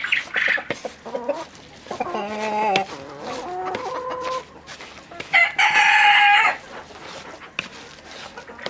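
Chickens clucking, with a rooster crowing once about five seconds in: a loud held call lasting about a second.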